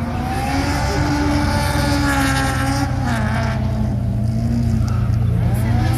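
Honda F20C four-cylinder engine in a Datsun 1200 rally car running, its revs rising and falling over a steady low hum.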